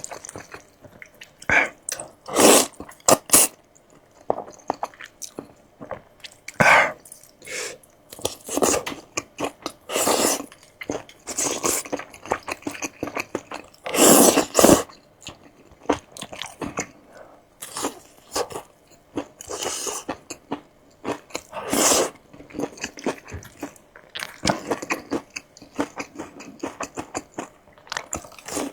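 Close-miked eating: a person biting and chewing crunchy food, in irregular bursts of crunching with short pauses between bites.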